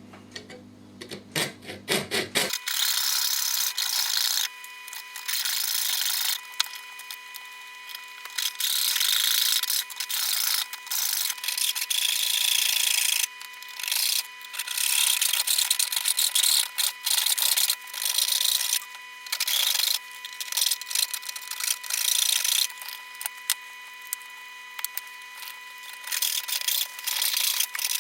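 Hand tool scraping back and forth on a workpiece in irregular runs of rasping strokes, starting about two and a half seconds in, as in filing or sanding by hand.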